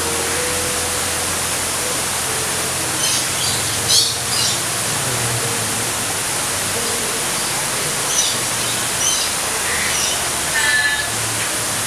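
A steady rushing hiss like falling water, with a few faint bird chirps and calls about three to four seconds in and again from about eight to eleven seconds.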